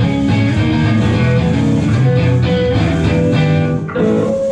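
Guitar playing chords loudly and continuously, the notes changing about every half second, with a brief dip just before the end.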